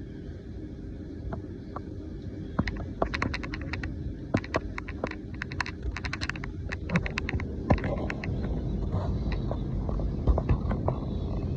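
Storm wind buffeting the microphone with a steady low rumble, and from a few seconds in a rapid, irregular patter of sharp clicks and taps, densest in the middle.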